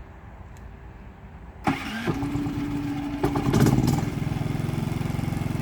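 Champion 5500W inverter generator's 224cc engine remote-started: about a second and a half in the electric starter kicks in and cranks with a steady whine, the engine catches with a rough burst about two seconds later, then settles into steady running.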